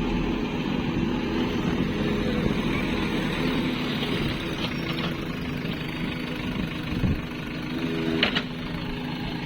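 Diesel engine running steadily, with a couple of short knocks about halfway through and near the end.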